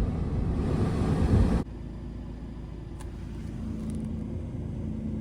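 Heater blower fan of a 2023 Vauxhall Vivaro running. A louder rush of air drops off suddenly about a second and a half in, leaving a quieter steady sound with a buzzing hum from the fan motor that comes through in the second half. The owner takes the buzz for an electrical motor noise that should not be there, not the sound of air.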